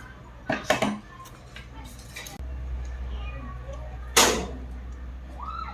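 Sharp knocks or clatters of hard objects, a quick cluster about half a second in and a single louder one about four seconds in, over a steady low hum that gets louder about halfway through.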